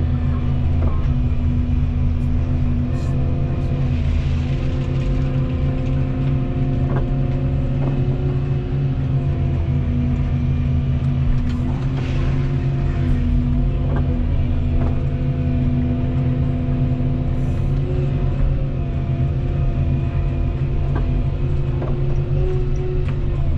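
Volvo 235EL excavator's diesel engine running steadily under working load, its pitch shifting slightly now and then, with a few faint knocks.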